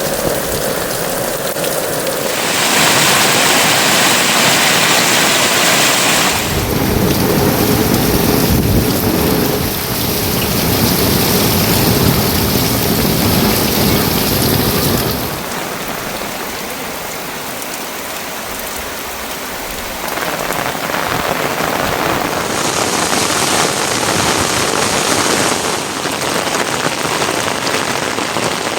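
Heavy monsoon rain pouring steadily and loudly. Its character shifts abruptly several times, growing fuller and deeper for stretches and then thinner.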